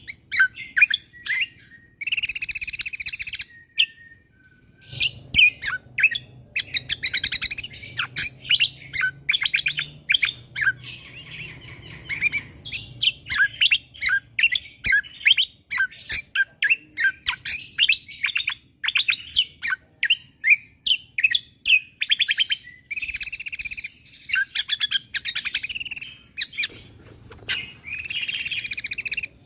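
Cucak kombo (kecial kombo) songbird singing vigorously in rapid-fire runs of sharp, high chirps. Bursts of harsh, buzzy chatter come about two seconds in and again near the end.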